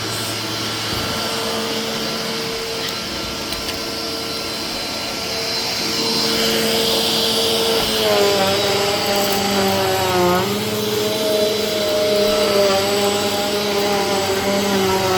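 Vacuum cleaner running with a steady whirring hum. About halfway in, its pitch starts to waver and dips twice, once near two-thirds of the way through and again at the end.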